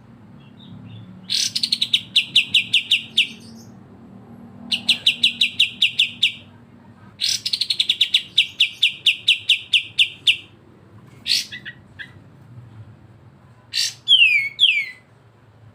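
A songbird's rapid trill, about seven or eight sharp notes a second, given in three bursts of two to three seconds each. Near the end come a few single sharp calls and two quick falling whistles.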